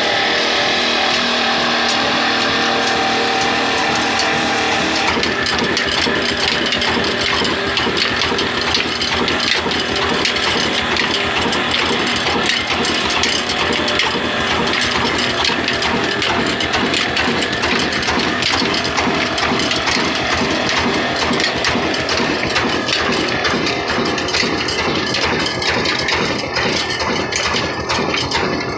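Old desi 'Kala' diesel oil engine running steadily with a rapid mechanical clatter.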